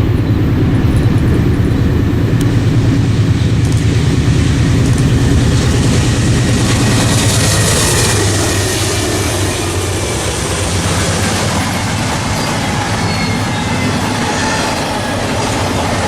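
Norfolk Southern train passing close by. A heavy low rumble fills the first half, then gives way to the steady rolling rush of the cars, with faint thin wheel squeal in the second half.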